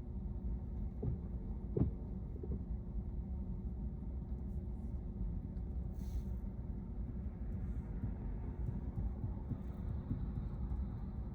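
Steady low road and tyre rumble inside the cabin of a Tesla Model Y electric car on the move, with a brief knock about two seconds in.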